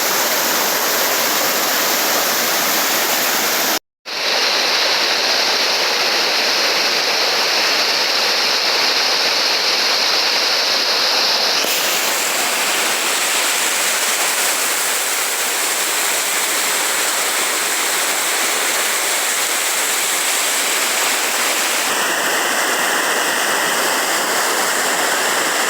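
Waterfall: a steady rush of falling and splashing water, broken by a split-second gap about four seconds in.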